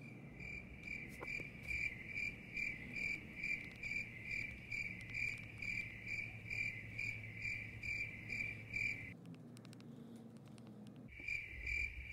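Cricket chirping in an even pulse of about three chirps a second. It breaks off for about two seconds near the end and then starts again.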